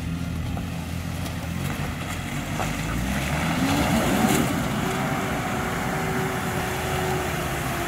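Off-road SUV engine revving up as it climbs. Its pitch rises from about two and a half seconds in to a peak around four seconds, then holds high and steady.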